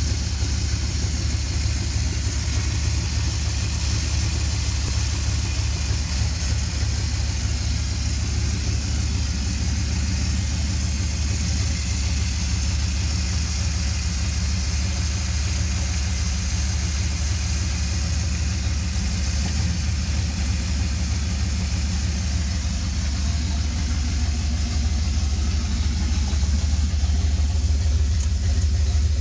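Ford 351 Windsor V8 in a 1976 Jeep CJ5 idling steadily on its first run after being fitted, a deep steady rumble that grows a little louder near the end.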